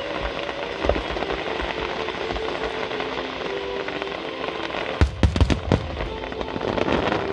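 Fireworks display: a dense, continuous crackle of bursting shells, with a cluster of loud booms about five seconds in, over music with held notes.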